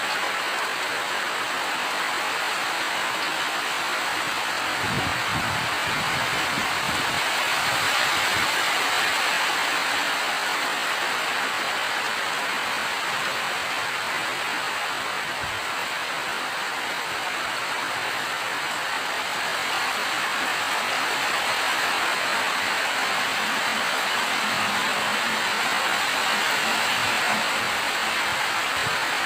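Steady rain falling, an even hiss with no pauses, with a few faint low thumps about five seconds in and again around fifteen seconds.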